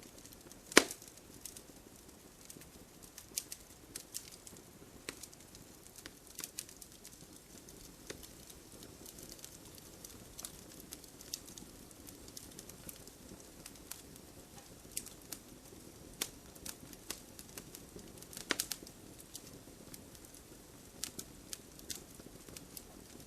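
Wood fire crackling: burning logs give off irregular sharp pops and snaps over a soft steady hiss of flames, with a loud pop about a second in and another a little after halfway.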